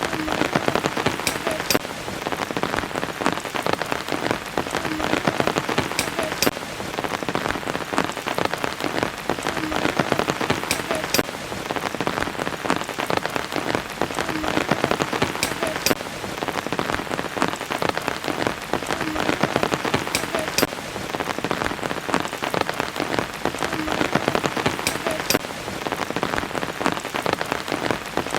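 Steady rain falling on surfaces: a dense, even patter with sharper individual drops ticking through it.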